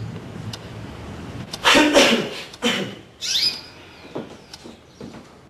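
Birds chirping, with short calls that fall in pitch, and a louder call about two seconds in.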